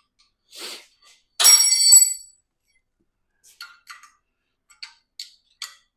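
Metal tools or engine parts clanking together: one sharp clank that rings briefly about a second and a half in, then a string of light metallic clinks.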